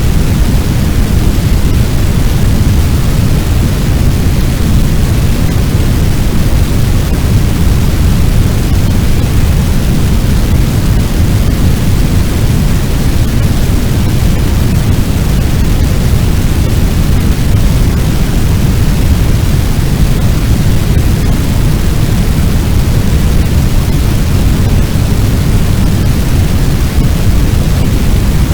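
Fire sound effect: a loud, steady, deep roaring rumble of noise like a blaze and its blast of hot wind, unbroken and without crackles standing out.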